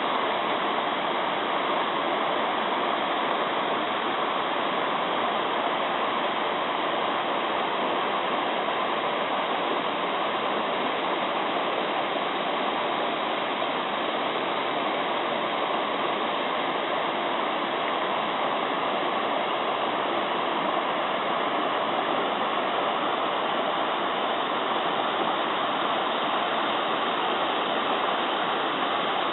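Mountain stream babbling, a steady rush of flowing water that stays even throughout.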